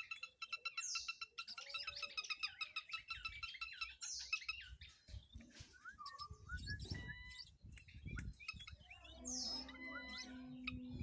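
Campeor songbird calling busily: rapid trains of high chirps, with a sharp falling high note about every three to five seconds, three in all. From about halfway a low rumble sits under it, and near the end a steady low hum joins for about a second.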